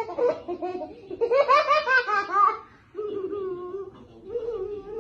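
A person laughing hard in quick, high-pitched bursts, loudest in the middle, followed by a couple of longer, drawn-out vocal sounds.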